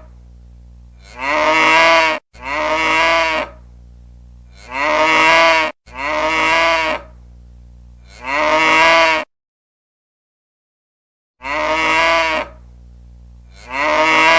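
Cow-moo ringtone: a recorded cow's moo played again and again, about seven calls each roughly a second long, coming in quick succession with a pause of about two seconds after the fifth. A faint steady hum lies under the calls.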